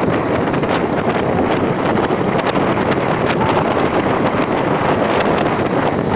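Loud, steady wind rushing over the microphone of a camera carried on a moving ride, with the vehicle's running noise mixed underneath.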